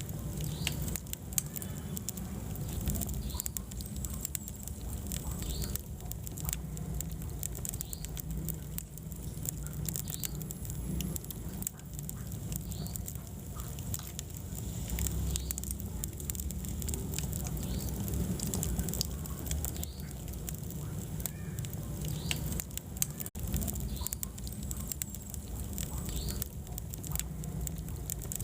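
Wood fire burning in a fireplace, crackling with frequent sharp pops and snaps over a steady low rumble of flames.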